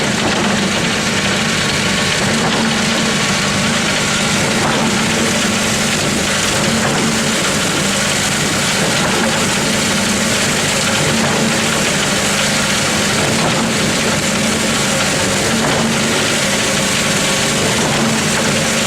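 Concrete pump running while pumping: a steady, loud machine noise with a constant low hum that does not change.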